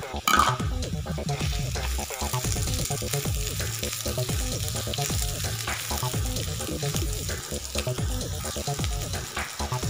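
Sliced onion and minced garlic sizzling in hot oil in a wok, stirred and scraped with a silicone spatula, with a short loud knock about half a second in.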